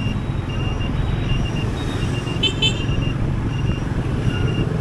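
Riding on a motorbike in city traffic: steady engine, road and wind noise, with two quick horn toots about two and a half seconds in and a faint short beep repeating about twice a second.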